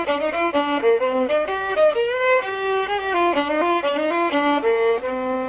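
Solo violin bowed: a quick melody of short notes, moving up and down, ending on a long held note near the end.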